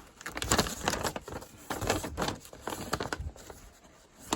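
Paper instruction sheet being unfolded and handled, crinkling and rustling in irregular bursts, with a sharp click near the end.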